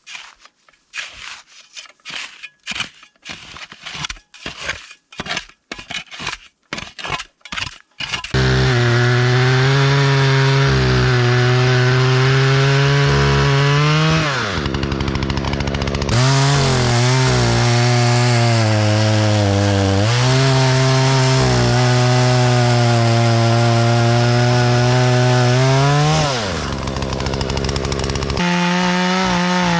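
About eight seconds of short, irregular scraping strokes, then a two-stroke chainsaw running at high revs, its pitch dropping and coming back up twice.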